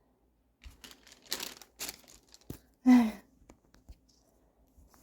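Paper rustling and crinkling in short bursts as sheets are handled, with a single click about two and a half seconds in and a brief falling vocal sound just after.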